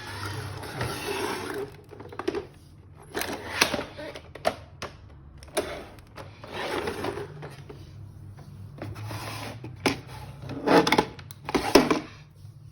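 iRobot Roomba 531 robot vacuum running: a steady low motor hum with irregular bursts of rattling, brushing noise and sharp clicks.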